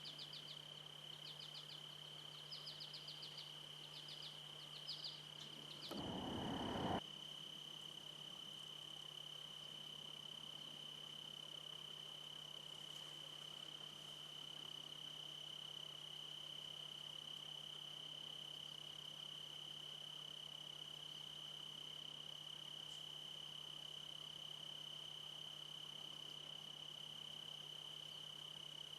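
A steady, unbroken high-pitched insect trill, with short chirps in the first few seconds. About six seconds in there is a second of louder rustling noise.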